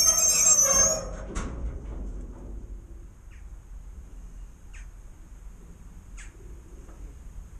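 Freight wagon wheels squealing on the rails as the train comes to a halt, the squeal cutting off about a second in. A low rumble and a faint steady high hiss follow, with a few short high chirps.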